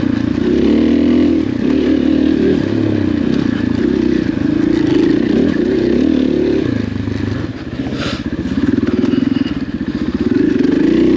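KTM dirt bike engine being ridden off-road, its revs rising and falling with the throttle. The engine eases off for about a second near eight seconds in, with one sharp knock, then picks up again.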